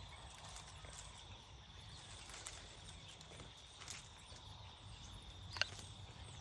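Faint, steady high-pitched hum with scattered light clicks and rustles, and one sharp click about five and a half seconds in.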